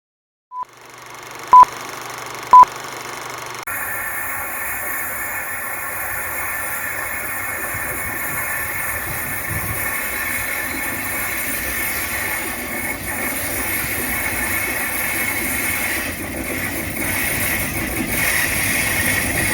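Two loud short electronic beeps about a second apart, then the steady sound of diesel locomotives running as light engines, slowly growing louder toward the end as they approach.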